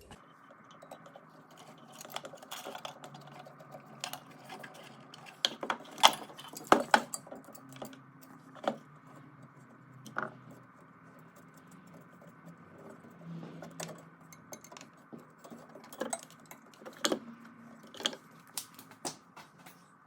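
Scattered metallic clicks and clinks of hand tools and small metal parts being handled while a car's fuel pump assembly is put back together, with a few louder knocks about six to seven seconds in, over a faint steady hum.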